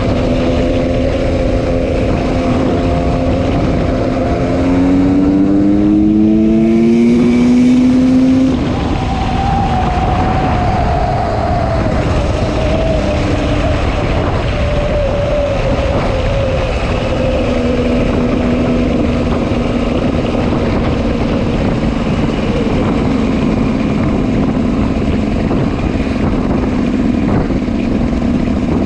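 The single-cylinder two-stroke engine of a 2004 GasGas EC 300 supermoto, breathing through an FMF Powercore 2 exhaust, running under throttle. Its pitch climbs steadily from about five seconds in, drops sharply near nine seconds, then eases down and holds fairly steady.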